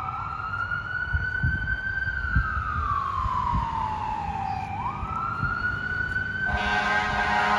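Fire engine siren on a wail, each cycle rising quickly then sliding slowly back down. A blast of air horn comes in near the end over the low rumble of the truck.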